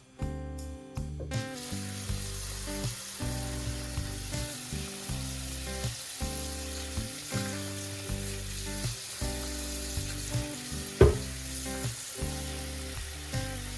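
Food sizzling in a hot frying pan, the hiss starting about a second in, with a sharp knock near the end.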